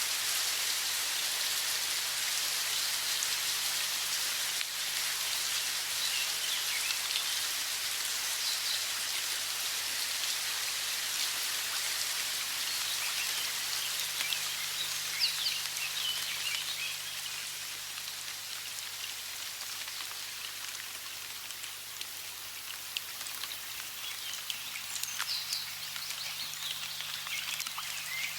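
Steady hiss of running water, with birds chirping in short gliding calls about halfway through and again near the end.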